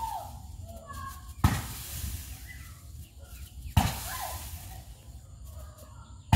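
Fireworks going off: a loud bang about a second and a half in, another about two seconds later, and a third just as it ends, with fainter crackling in between.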